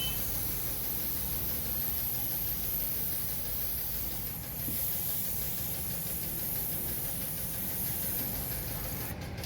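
Steady hissing noise over a low rumble, unbroken throughout.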